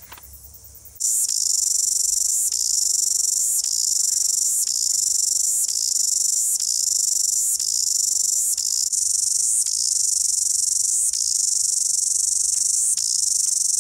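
Chorus of thousands of male cicadas singing for a mate: a loud, high-pitched buzz that starts suddenly about a second in and dips and swells about once a second.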